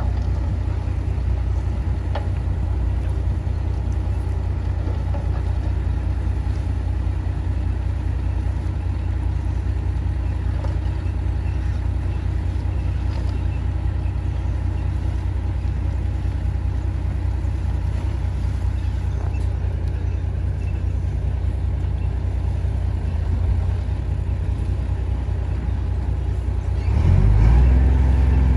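Heavy diesel engine of earthmoving machinery running steadily under load, a deep continuous drone that gets louder near the end.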